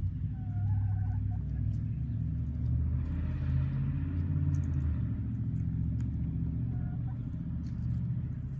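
Low, steady rumble of a motor vehicle engine, with a hiss that swells and fades in the middle.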